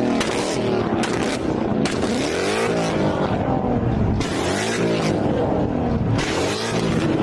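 A modified car engine revved hard several times, its pitch climbing and dropping again and again, with a loud exhaust.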